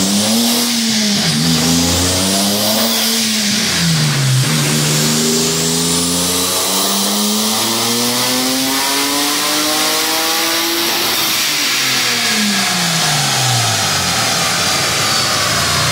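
Turbocharged Nissan 300ZX (Z31) engine on a chassis dyno: two quick revs up and back, then a long pull rising steadily in pitch for about six seconds before it falls back down as the throttle closes.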